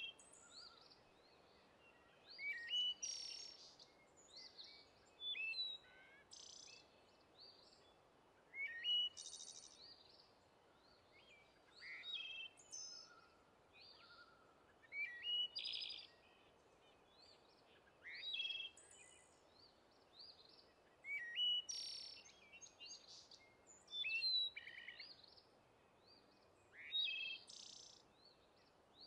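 Songbird singing short, varied, high phrases about every three seconds over a faint steady hiss.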